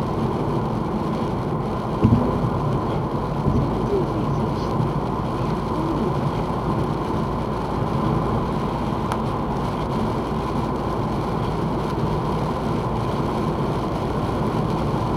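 Steady road and engine noise inside a moving car's cabin, with one short thump about two seconds in.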